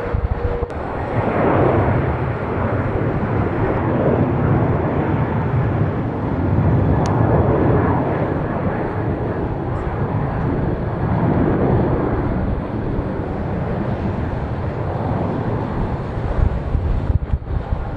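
Jet airliner's engines at takeoff thrust: a steady rushing noise, heaviest in the low range, that swells and eases every few seconds.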